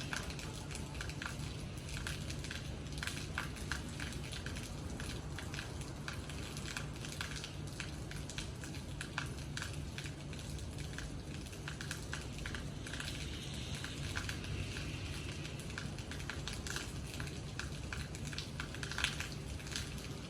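Rain falling, with many irregular drops ticking and pattering on a hard surface close by, over a steady low hum.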